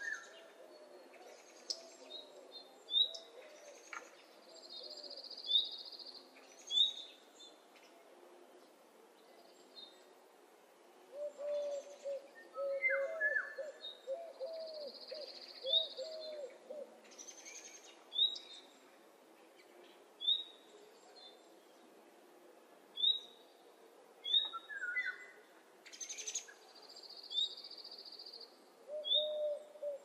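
Birds calling: short high chirps repeating every second or two, a few longer high notes held for about a second and a half, and runs of lower wavering calls in between.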